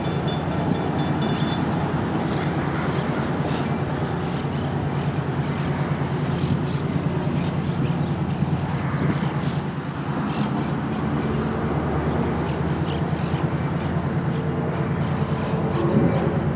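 Diesel locomotive of a train running steadily, with a low engine hum and scattered faint clicks.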